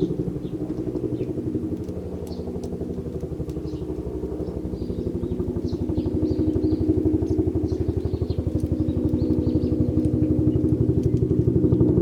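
An engine running close by, a steady low pulsing drone that grows louder over the second half, with faint short bird chirps above it.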